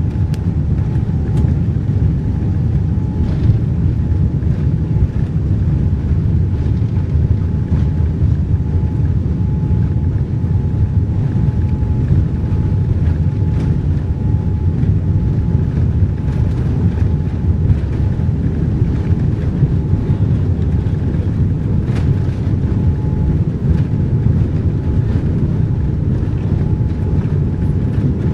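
Steady cabin noise of a Boeing 787-9 Dreamliner in flight: a constant low rumble of engines and airflow, with a faint thin hum held underneath and a few soft ticks.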